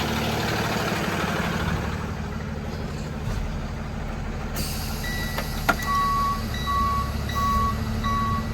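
Box truck engine running low and steady while it backs up. A little past halfway there is a sharp click, and then its reversing alarm starts beeping at a steady pace of about one and a half beeps a second.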